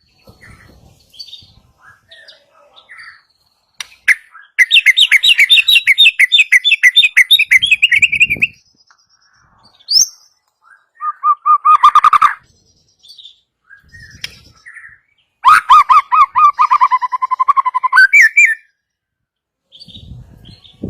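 White-rumped shama (murai batu) singing in bursts of fast, evenly repeated rattling notes: a long high series, then a short lower trill, then a longer low trill that jumps up in pitch at its end. It is an agitated rattling song used to provoke other shamas into singing.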